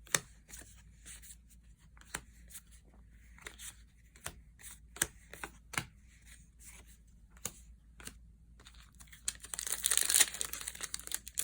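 Scattered light clicks of trading cards and packaging being handled, then, about nine and a half seconds in, a Magic: The Gathering booster pack's foil wrapper crinkling and tearing open.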